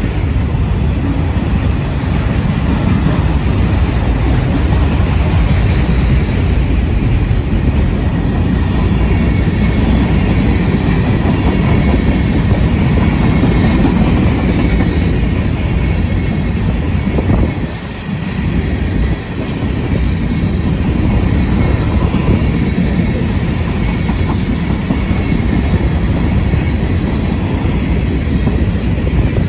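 Freight cars of a CSX mixed freight rolling past close by: a loud, steady rumble of steel wheels on rail with clickety-clack over the rail joints and a faint high wheel squeal as the train takes the curve. The rumble dips briefly about two-thirds of the way through.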